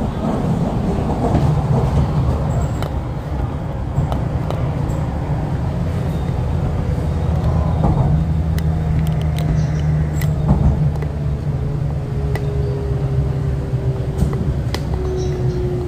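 MTR East Rail Line R-Train electric multiple unit (Hyundai Rotem) running along the line: a steady low rumble of wheels and running gear with a low hum and scattered clicks. Near the end a faint whine slides slowly down in pitch.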